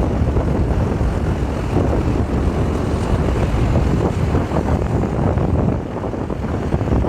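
Car driving along at speed: a steady rumble of road and engine noise with wind buffeting the microphone.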